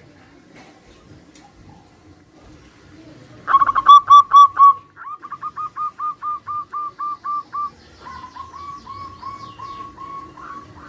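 Zebra doves (perkutut) cooing. A loud burst of quick staccato notes comes about a third of the way in, followed by longer, softer runs of evenly spaced notes, about five a second.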